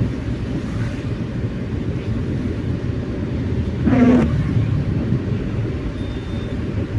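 Car driving, a steady low rumble of engine and tyre noise. A short rasping sound comes about four seconds in, part of a pattern that repeats every four to five seconds.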